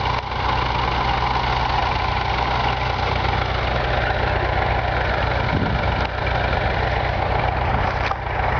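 Diesel engine of a 650 tractor running steadily at idle, with a couple of faint clicks near the end.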